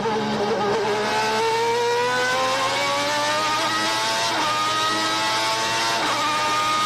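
Onboard sound of Nigel Mansell's 1990 Ferrari 641 V12 Formula One engine at race speed. The engine note dips briefly, then climbs steadily under acceleration, with two brief breaks near the end.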